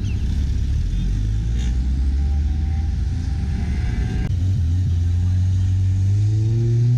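A car engine running with a low rumble, then from about four seconds in revving up, its pitch climbing steadily as the car accelerates.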